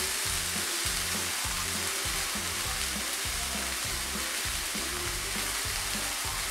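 Steady sizzle of eggplant pieces frying in oil in a karahi, the eggplant nearly done.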